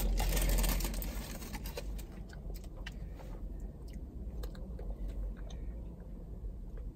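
Someone chewing a bite of burger close to the microphone: a rustle in the first second, then soft, scattered mouth clicks.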